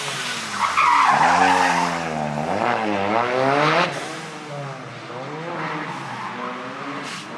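Ford Sierra RS Cosworth's turbocharged four-cylinder rally engine running hard, revs dropping and then climbing again, with tyres skidding about a second in. The sound drops away after about four seconds.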